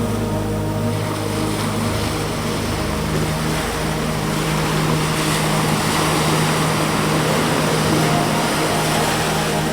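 Ambient synthesizer music with long held drone notes, over the wash of ocean surf on the shore that swells up in the middle and eases off again.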